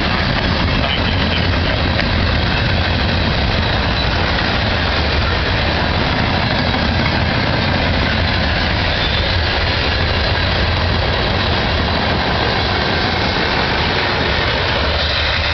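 Diesel train locomotives running steadily: a constant low engine hum under a loud, even hiss.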